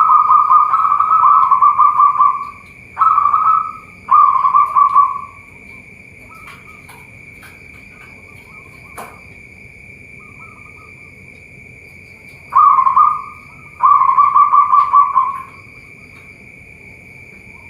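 Zebra dove (perkutut) cooing in rolling, purring phrases: one long phrase at the start, two shorter ones a few seconds in, a quiet gap, then two more phrases near the end. A thin, steady high-pitched whine runs throughout.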